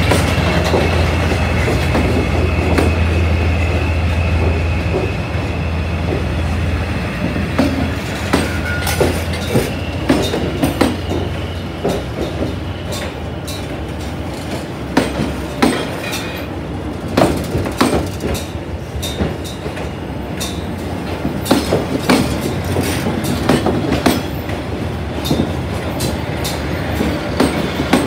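A train rolling past close by, its boxcars and then passenger coaches clacking over the rail joints in sharp, irregular knocks. A low hum fades out over the first several seconds, with a faint high wheel squeal in the first part.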